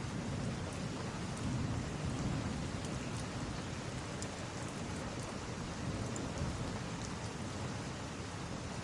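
Steady heavy rain hissing, with a low rumble of thunder that is strongest in the first few seconds and then eases off. A few faint ticks sound over the rain.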